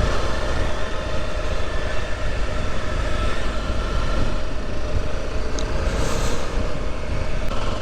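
Motorcycle engine running steadily while riding, with a heavy rumble of wind on the microphone.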